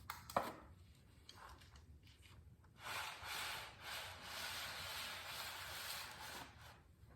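Gloved hands rubbing and scraping as a motorcycle part is hand-tightened, a steady rub of about four seconds starting around three seconds in. A single sharp knock comes about half a second in.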